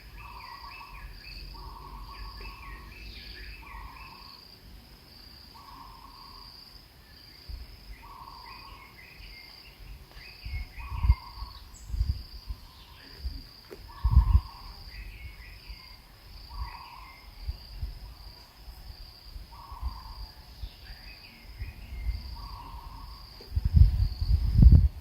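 Outdoor ambience: a steady pulsing insect chorus, a short low call repeated every one to three seconds, and scattered bird chirps. From about ten seconds in there are low thumps, the loudest near the end.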